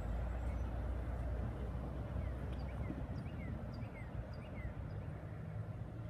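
A small bird chirping: a run of short, falling chirps through the middle, over a low rumble that fades slowly.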